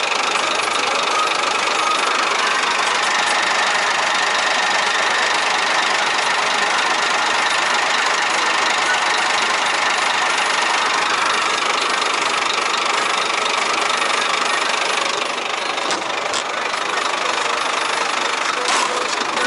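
Scania 114 380 truck's 11-litre six-cylinder diesel engine idling steadily, dropping slightly in level about fifteen seconds in, with a few short clicks near the end.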